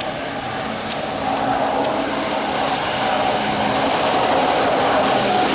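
Electric jet kayak under way on Li-ion battery power: its motor and jet pump give a steady, slightly wavering whine over a rush of noise, growing a little louder about three seconds in.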